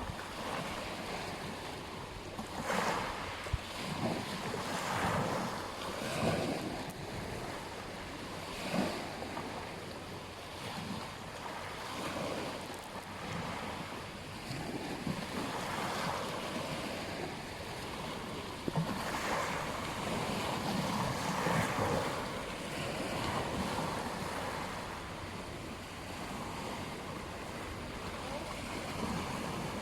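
Waves breaking and washing on a beach, the surf swelling and falling every second or two, with wind on the microphone.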